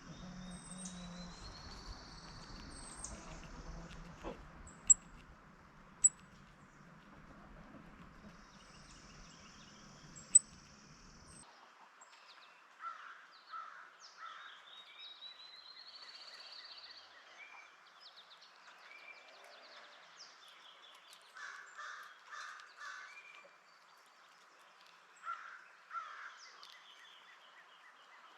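Several wild birds singing and calling: high rising whistled songs and trills, and later a few short groups of harsh, caw-like calls. A few sharp clicks sound in the first half, over a low hum that stops about a third of the way in.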